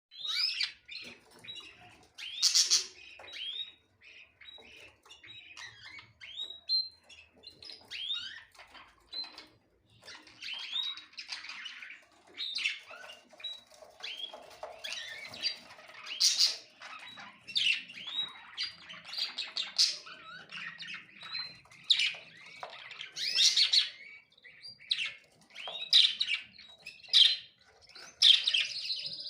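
Small birds chirping and squawking, many short calls overlapping without pause.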